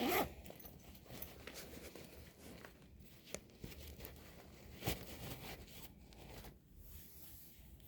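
Rustling, crinkling and small clicks of a bag and its contents being handled as a pouch is opened, with a louder rustle at the start and a sharper click about five seconds in.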